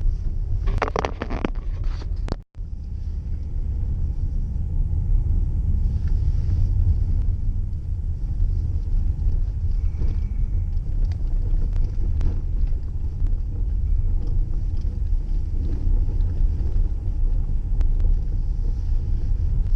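Steady low rumble, like a vehicle running, with a sudden brief drop-out about two and a half seconds in.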